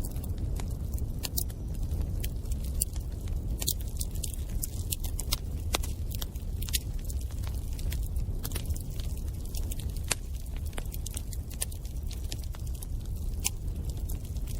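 Bonfire burning: a steady low rumble of flames with frequent sharp, irregular crackles and pops from the burning wood.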